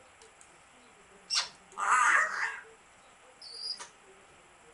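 African grey parrot vocalizing: a sharp click about a second in, a rough call just under a second long around two seconds in, and a short high whistle near the four-second mark.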